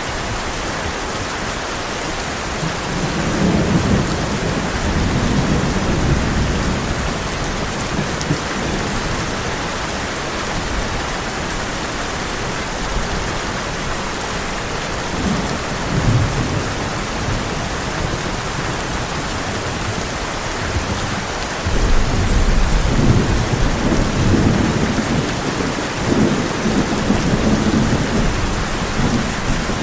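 Heavy rain drumming steadily on a tin roof, with rolling thunder. A rumble builds about three seconds in and lasts a few seconds, a brief one comes near the middle, and a louder one starts suddenly about two-thirds of the way through and rolls on almost to the end.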